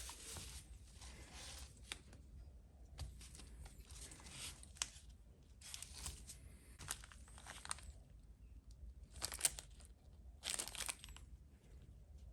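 Small plastic parts bag rustling and crinkling in a series of short bursts, with a few light clicks.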